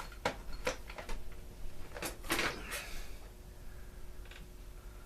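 Clicks and knocks of leaf blower parts and tools being handled: several sharp clicks in the first second, then a short scraping rattle a little past two seconds in.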